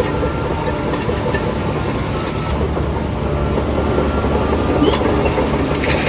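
Shantui DH17C3 crawler bulldozer running under load, its diesel engine steady under a dense rattling clatter of metal. A brief hiss comes near the end.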